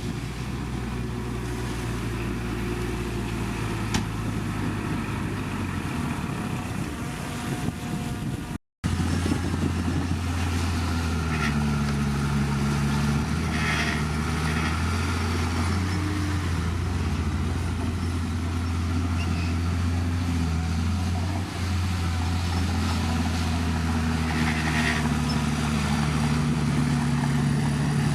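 Heavy diesel engine of earthmoving machinery running; after a brief dropout about nine seconds in, its pitch rises and falls repeatedly.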